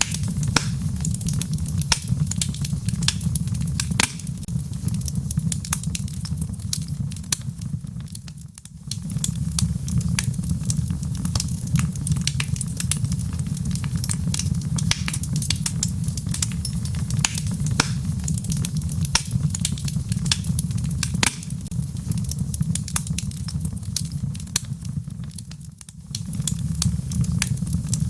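Wood logs burning in a fireplace: a steady low rumble of flame with frequent sharp crackles and pops. The sound dips briefly twice, about eight seconds in and near the end.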